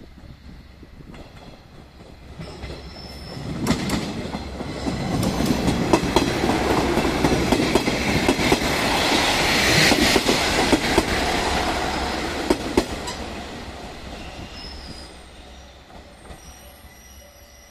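A diesel railcar approaching and passing close by, its engine and wheels swelling to a loud peak with rapid clicks from wheels over rail joints, then fading as it runs on into the station. Faint high squeals near the end as it brakes.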